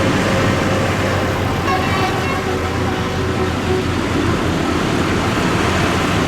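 Tractor engines running steadily as a line of tractors passes along the road, with a continuous rumble and road noise.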